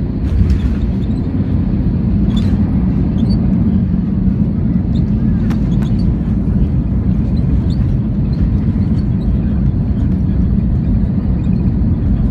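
Airbus A321 heard from inside the cabin: a loud, steady low rumble of the aircraft, with a few light clicks and rattles, one near the start.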